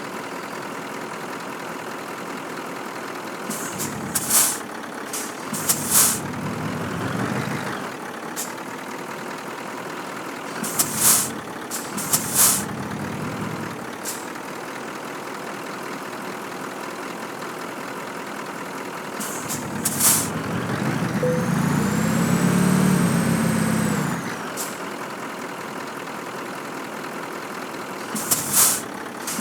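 Scania truck's diesel engine running, with short air brake hisses that come several times, often in pairs. About two-thirds of the way in, the engine revs up and back down.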